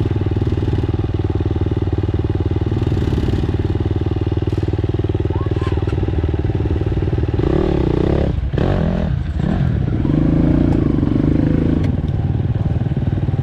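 Dirt bike engine running steadily under way, then revved up about halfway through, with a louder, higher-pitched stretch of throttle before it settles back.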